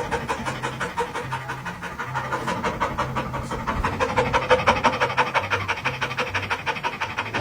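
Fast, even panting, about six breaths a second.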